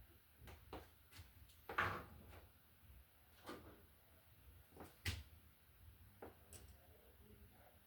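Faint, scattered small clicks and knocks of hand tools and a wall receptacle being handled while it is wired, about ten in all, the loudest about two seconds in.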